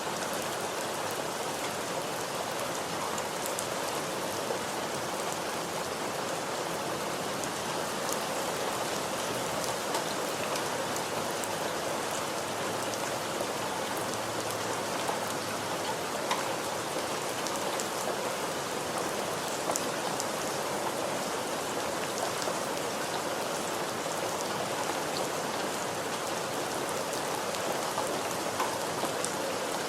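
Steady rain falling, with a constant hiss and many individual drops pattering on a surface.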